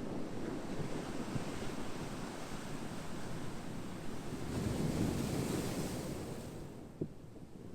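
Ocean waves washing on a shore, a wave surging up with a rising hiss about halfway through and then drawing back.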